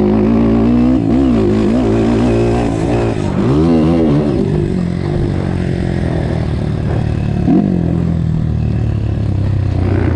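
Motocross dirt-bike engine noise, the revs rising and falling again and again with throttle and gear changes, and a quick sharp blip of revs about seven and a half seconds in.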